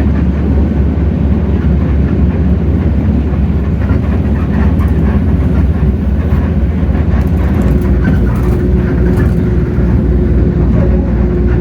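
Hino J08E-VN 7.7-litre six-cylinder diesel of a Hino RK8JRVA city bus running under way, heard from inside the bus as a steady, loud low rumble. A steady whine joins in about two-thirds of the way through.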